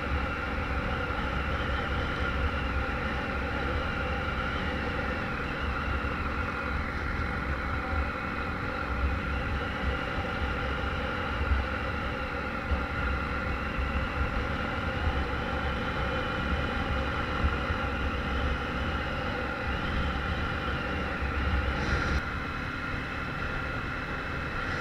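Harley-Davidson Street 500's V-twin engine running steadily while riding, heard from a helmet chin camera with wind noise. It gets a little quieter near the end.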